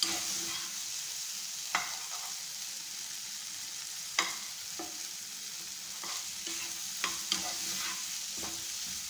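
Chicken, onion and capsicum sizzling in a frying pan as a plastic spatula stirs and scrapes them, with a few sharp clicks of the spatula against the pan.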